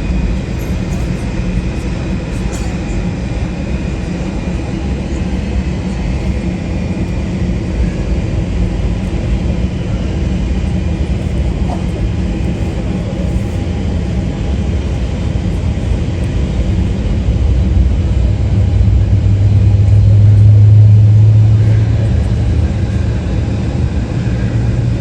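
Jet airliner engines giving a steady low rumble that swells to its loudest about twenty seconds in, then eases as the aircraft passes.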